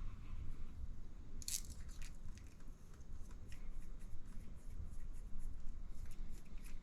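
Faint clicks and rustling of small plastic and metal RC shock parts being handled during assembly, with a sharper click about a second and a half in, over a low steady room rumble.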